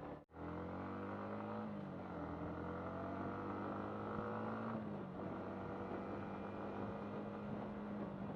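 Yamaha MT-15's single-cylinder engine accelerating through the gears: its pitch rises, drops at a shift about two seconds in, rises again, drops at another shift about five seconds in, then holds steady at cruising speed.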